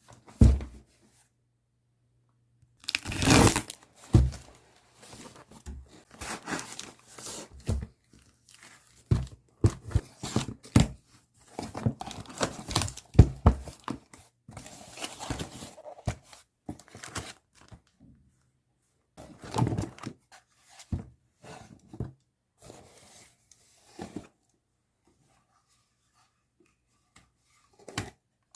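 Paper and plastic packaging being torn open and crinkled by hand, in irregular short bursts with brief pauses.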